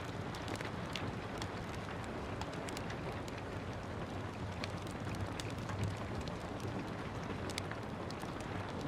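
Steady rain falling, with the irregular sharp pops and crackles of a wood fire burning in a fireplace scattered through it.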